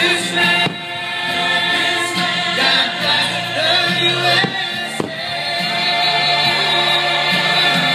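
Music with a choir singing held notes, with a sharp crack about five seconds in.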